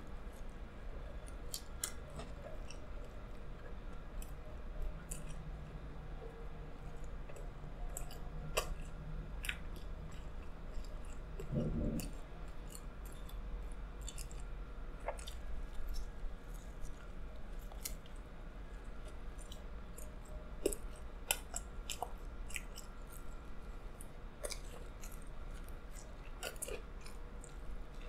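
A person biting and chewing pizza close to the microphone: irregular wet mouth clicks and small crunches of the crust, over a low steady hum.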